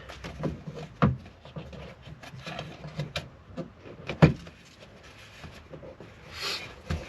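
Tail-light housing and its rubber seal being pressed and worked into place on the car body: scattered clicks and knocks, with two sharper knocks about a second in and just past four seconds in, and a brief rustle near the end.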